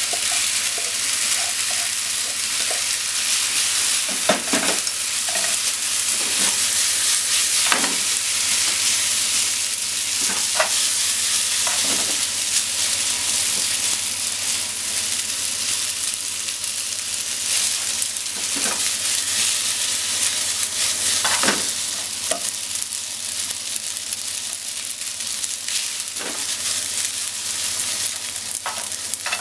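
Spaghetti and slices of meat sizzling in a frying pan as they are stir-fried, a steady hiss with a few short knocks and scrapes of a utensil against the pan as the noodles are tossed.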